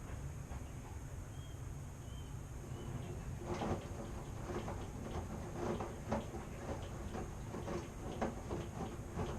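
Washing machine running with a steady low rumble; from about three seconds in, its turning drum gives off irregular knocks and clatter, one or two a second.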